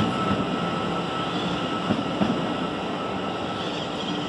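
CPTM 9500-series electric train pulling out and running away along the track, its steady running noise slowly fading. A couple of sharp knocks come about two seconds in.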